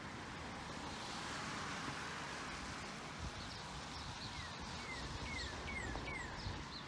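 A songbird calling a run of short down-slurred notes, about two a second, over a steady faint outdoor background hiss.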